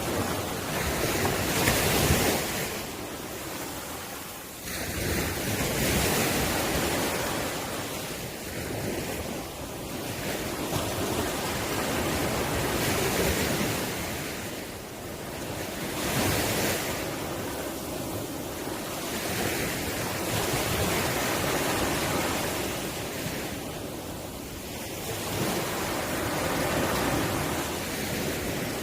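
Ocean waves breaking and washing up the shore, a rushing noise that swells and fades every few seconds, with the biggest surge about two seconds in.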